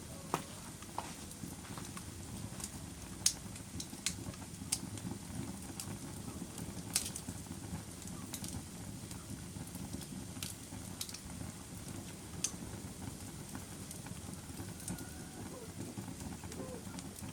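Wood fire burning in a fireplace: a steady low rush of flame with irregular sharp crackles and pops, the loudest about three seconds in and again about seven seconds in.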